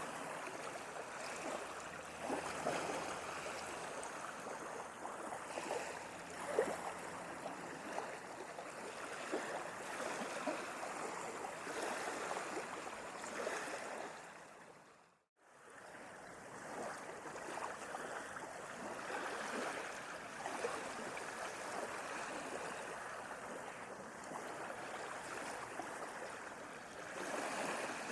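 Sea waves washing and splashing in a steady wash of water noise. About halfway through it fades quickly down to silence and straight back in.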